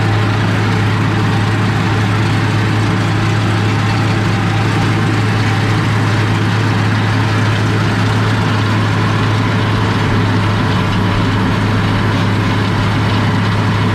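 International 1086 tractor's six-cylinder turbo-diesel running at a steady speed, a constant low drone heard from inside the cab.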